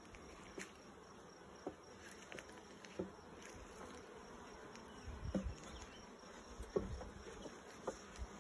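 Honeybees buzzing around an open hive, with scattered light knocks from wooden frames being set into the new hive box.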